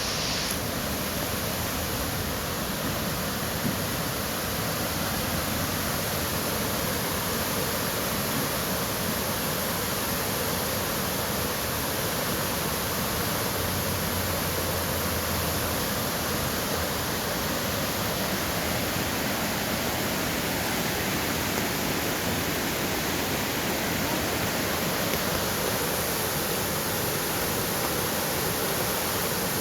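Floodwater rushing steadily over a road, a continuous rushing of flowing water.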